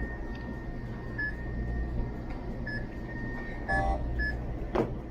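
Short electronic beeps from a checkout register or barcode scanner ringing up items, four of them roughly a second apart, over a steady low hum. A single knock near the end.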